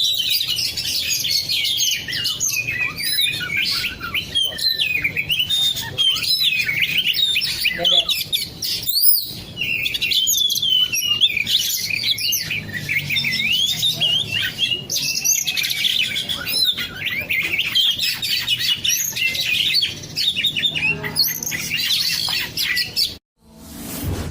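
Oriental magpie-robin (kacer) singing continuously in a rapid, varied stream of chirps and whistles; the song cuts off abruptly about a second before the end.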